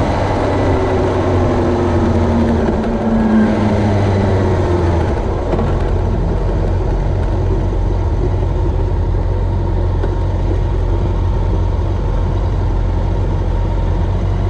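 Steady engine noise with a rushing haze over it. In the first few seconds the engine's pitch glides up and down, and about five seconds in the sound changes to a deeper, even hum.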